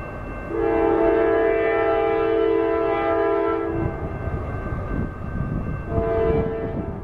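Freight locomotive's multi-chime air horn sounding one long blast of about three seconds, then a short blast near the end, over the low rumble of the train.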